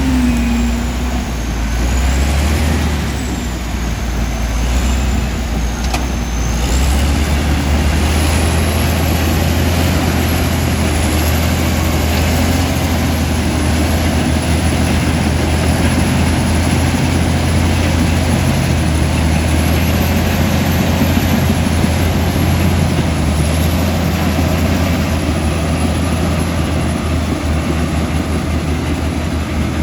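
Komatsu D65E bulldozer's diesel engine running steadily under work, with a thin high whine that wavers up and down in pitch.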